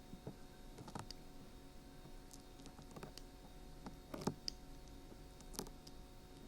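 Dried glue peeling off a 3Dio binaural microphone's ear: scattered small crackles and clicks, with a louder snap about four seconds in and another a little later.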